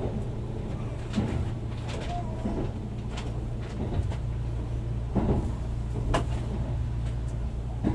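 Kintetsu 80000 series Hinotori electric train running, heard from inside the car: a steady low rumble with occasional sharp knocks from the wheels at uneven intervals.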